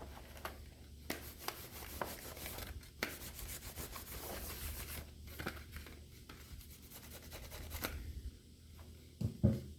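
Laptop casing being wiped and scrubbed down with isopropyl alcohol: irregular rubbing strokes with a few light taps and knocks, the last one about nine seconds in.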